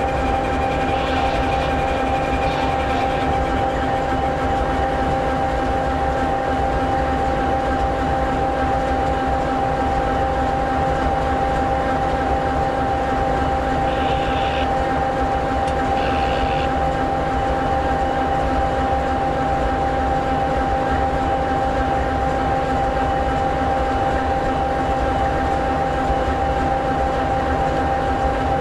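EMD SD60E locomotive's 16-cylinder two-stroke 16-710G3B diesel engine idling steadily, a constant rumble with a steady whine over it. Two short high chirps sound about halfway through.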